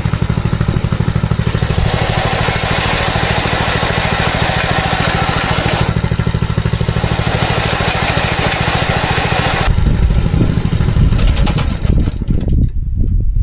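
Mini bike's small single-cylinder engine running at a steady idle. About ten seconds in it goes rough and uneven, then near the end it sputters and dies: the engine bogging and stalling when throttle is applied.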